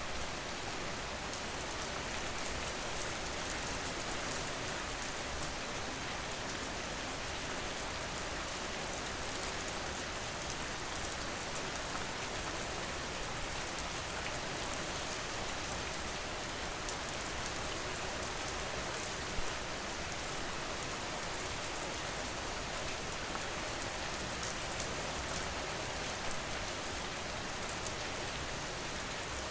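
Steady rain falling: an even, unbroken hiss with fine scattered drop ticks.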